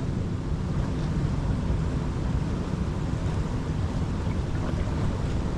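Wind buffeting the microphone in a steady low rush, with moving water.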